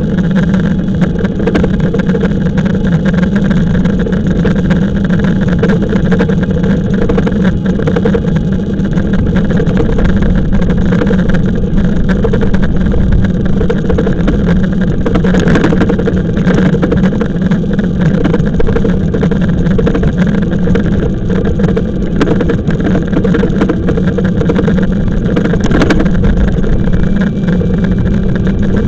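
Riding noise on a moving e-bike: a steady hum under continuous rushing noise.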